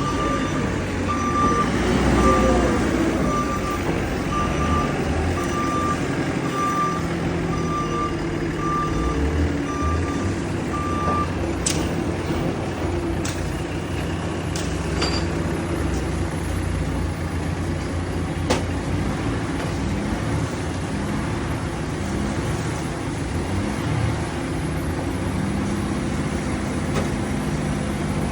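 Backhoe loader's diesel engine running steadily, its reversing alarm beeping about one and a half times a second for the first ten seconds or so, then stopping. A few sharp knocks come later.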